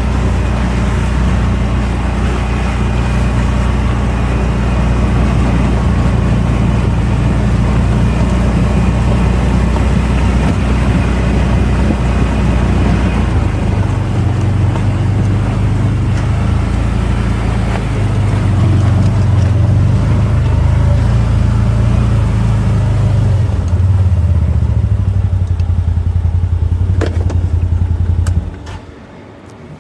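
Can-Am off-road vehicle's engine running, its note shifting up and down as it drives, then cutting off shortly before the end.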